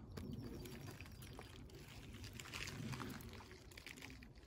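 Rustling of leaves and twigs being moved aside in a hedge, with irregular small cracks and clicks.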